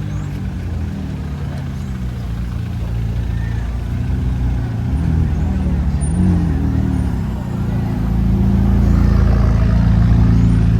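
Car engine running at idle, blipped up and back down a couple of times in the middle, then getting louder near the end.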